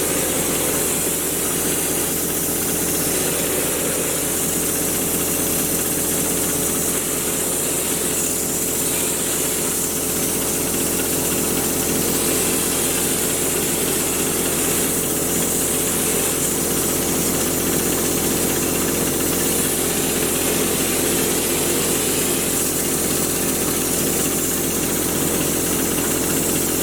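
Drywall texture sprayer running steadily: a constant motor hum with a strong, even hiss of spray.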